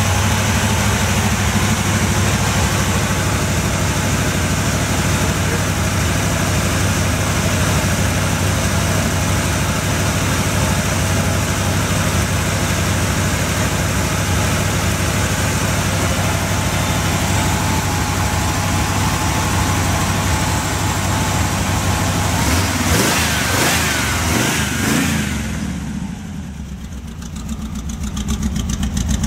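1961 GMC truck's engine running steadily. Near the end the note shifts with a few clicks, dips for a couple of seconds, then builds back up.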